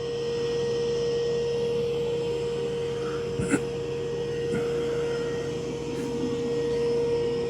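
Mova V50 robot vacuum running on carpet: its suction motor gives a steady whine over a constant hum. There is a brief click about three and a half seconds in.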